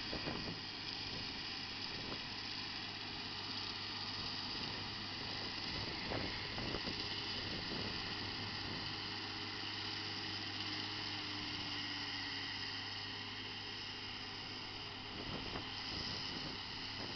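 Massey Ferguson 6480 tractor running steadily under load while it drives a Spearhead rotary topper, with a continuous engine hum and the whirr of the mower.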